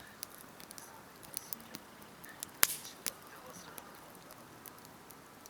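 Wood campfire crackling: scattered sharp pops and snaps over a faint hiss, the loudest about two and a half seconds in.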